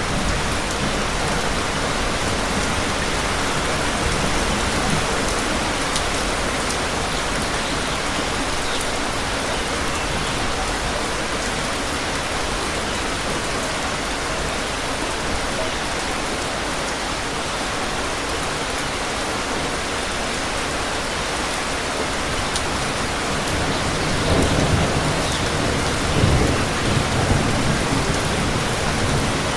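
Steady rain falling, an even hiss of drops, with a low rumble of thunder swelling in near the end.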